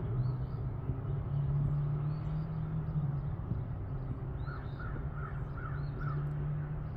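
Birds calling: a quick run of about six short calls just past the middle, with faint high chirps scattered throughout, over a steady low hum.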